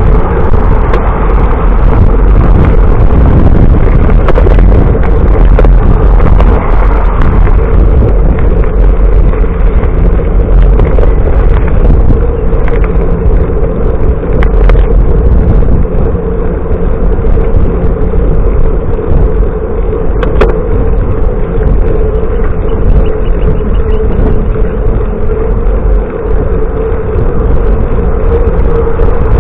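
Wind buffeting a bicycle-mounted or helmet camera's microphone while riding, a loud, steady rush with a constant hum underneath.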